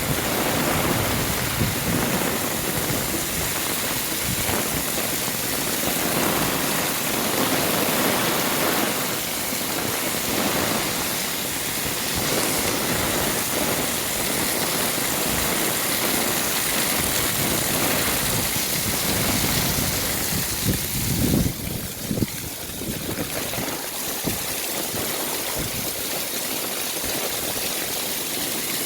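Heavy rain falling steadily, with water running and splashing. About two-thirds of the way through, the rain briefly thins and a few sharp taps stand out.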